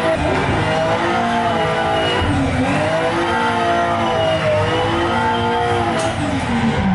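A car engine revving hard, its pitch climbing and dropping again and again, as when a car is being drifted.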